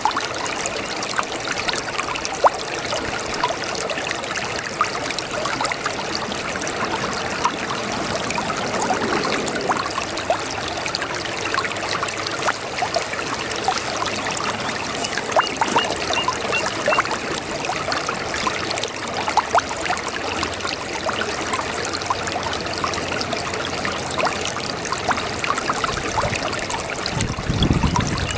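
A shallow brook babbling and trickling steadily, with many small splashes. There is a brief low rumble near the end.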